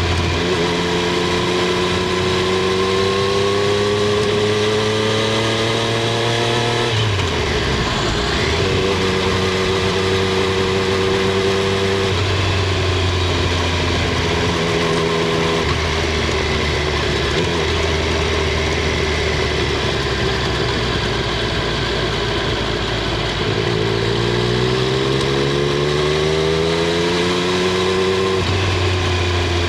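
Triumph Street Triple 765 R's inline three-cylinder engine and exhaust under way. The engine note rises slowly, falls off sharply about seven seconds in, then holds steady with a few small steps down. It climbs again for several seconds and drops back near the end.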